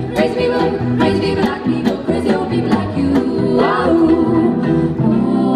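1930s-style swing music: a band keeps a steady beat under women's close-harmony vocals. A voice glides upward partway through, and the voices settle into a held chord near the end.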